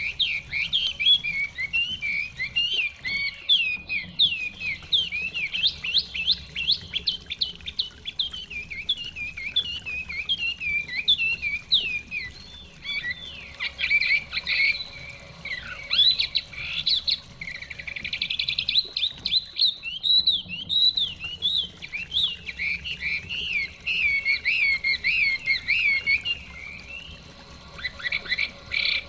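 Chinese hwamei singing: a long, rapid run of varied whistled notes with short pauses.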